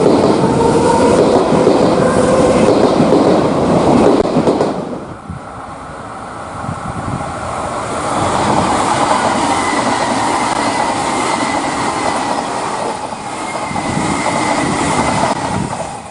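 Electric train running on the rails, with a motor whine that rises slowly in pitch. About five seconds in it drops suddenly quieter, then the running noise continues until the sound cuts off abruptly.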